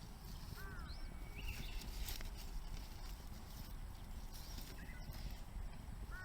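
Bamboo bonfire crackling with a few sharp pops over a low, steady rumble, while a bird calls several times in short arched cries.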